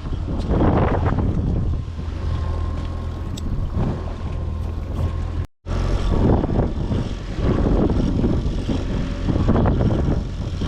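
Boat motor running steadily under gusts of wind buffeting the microphone. The sound drops out for a moment about halfway through.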